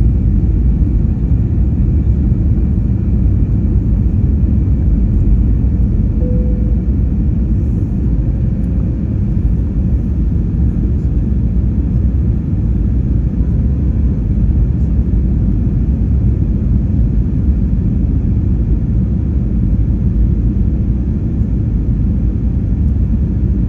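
Steady low rumble of jet engines and airflow inside the cabin of a Wizz Air Airbus A320-family airliner in flight.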